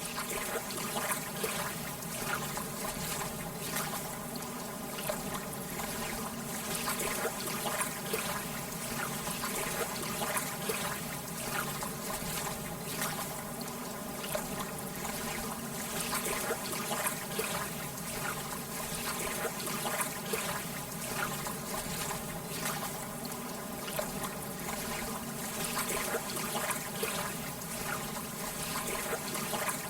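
Gentle lake water lapping, a continuous wash with many small splashes and trickles.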